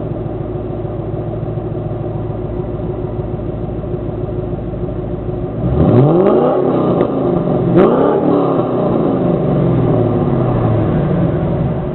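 2007 Mustang GT's 4.6-litre V8 through Kooks long tube headers, an off-road H-pipe and stock mufflers, idling steadily, then revved twice in quick succession about six and eight seconds in, each rev falling slowly back to idle, with a sharp crack around the second rev.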